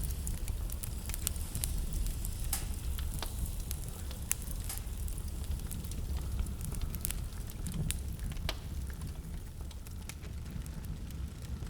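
Wood burning in a fireplace, crackling with irregular sharp pops and snaps over a low, steady rumble.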